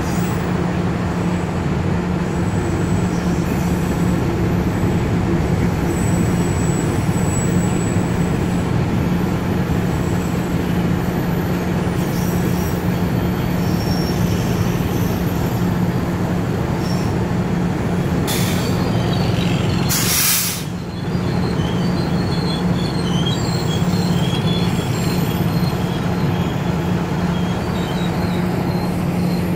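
CC206 diesel locomotives running with a steady low hum as a ballast train's loaded hopper wagons roll slowly past, wheels squealing faintly. Two short blasts of air hiss come about two thirds of the way in, the second longer.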